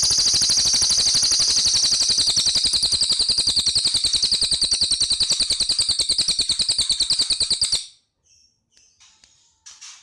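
Cililin bird singing a long, rapid rattling trill of high notes, about nine a second, that stops abruptly near the end; a few faint chirps follow.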